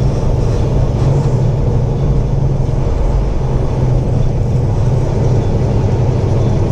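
Semi truck's diesel engine and road noise droning steadily inside the cab while the truck drives down a highway grade.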